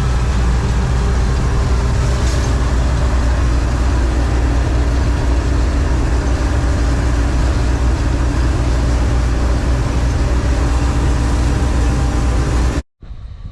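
John Deere 4400 combine running steadily while harvesting soybeans: a loud, even drone of engine and threshing machinery, which cuts off suddenly near the end.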